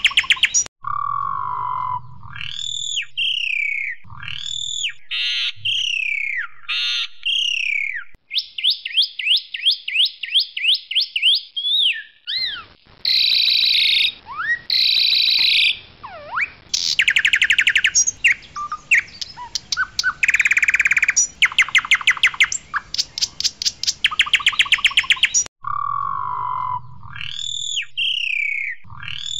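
Asian pied starling (jalak suren) singing loudly. Its varied song mixes bending whistles, rapid rattling trills and harsh chatter, and the same song phrase comes round again near the end.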